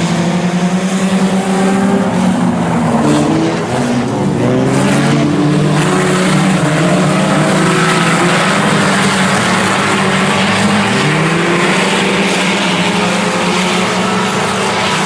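A field of IMCA Sport Compact race cars' four-cylinder engines running together, several overlapping engine notes rising and falling as the cars rev and lift.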